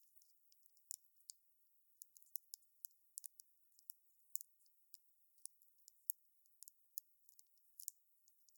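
Wood fire crackling: irregular sharp snaps and pops, several a second, without any low roar beneath them.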